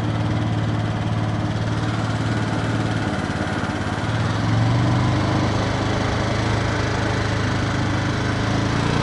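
Viper V250-C cruiser motorcycle engine idling steadily, its note shifting slightly about three seconds in and lifting a little a second or so later, with wind noise on the microphone.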